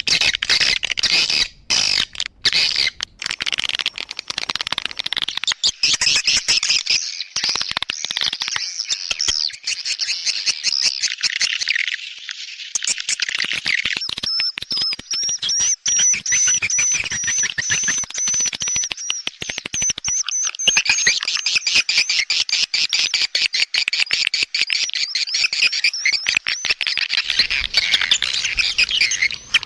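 Swiftlet call playback: a loud, dense stream of rapid high chirps and twitters, the lure sound played to draw edible-nest swiftlets into a bird house. A thin, steady high trilling tone runs through the middle of it.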